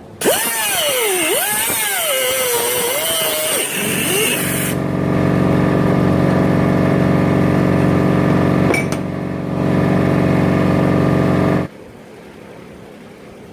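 A power tool starts abruptly and runs with its pitch dipping and wavering under load for a few seconds, then runs at a steady pitch and cuts off suddenly near the end.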